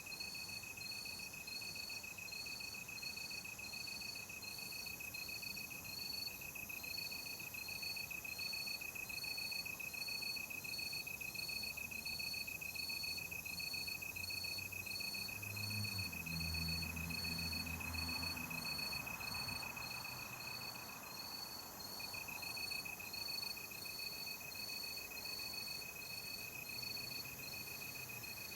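Night insects calling: one cricket-type insect trills steadily at a high pitch while another, higher still, chirps about twice a second. A low hum swells up and fades away in the middle.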